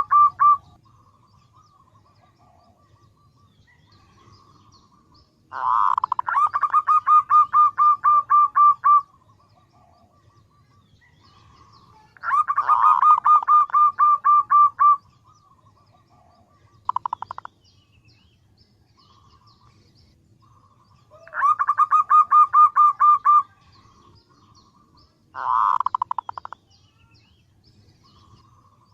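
Female zebra dove (perkutut) calling for a male: five bursts of rapid, evenly spaced cooing notes a few seconds apart, three lasting two to three seconds and two brief.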